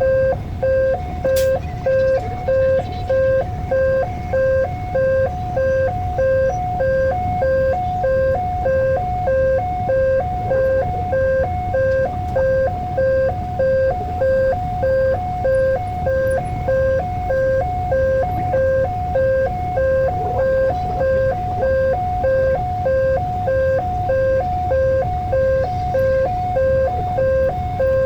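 Electronic level-crossing warning alarm sounding, a two-note chime repeating evenly about three times every two seconds, the signal that a train is approaching and the barrier is down. Beneath it runs a steady low rumble.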